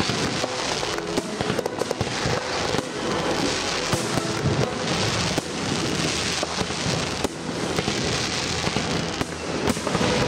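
Aerial fireworks crackling and popping in quick succession, many small sharp bangs one after another, with music playing underneath.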